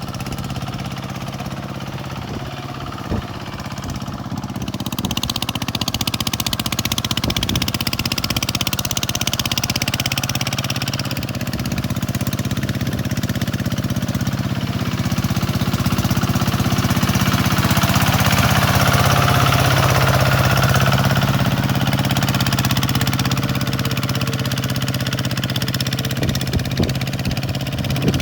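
Tractor diesel engine running steadily, a little louder through the middle. A few sharp knocks are heard near the start and near the end.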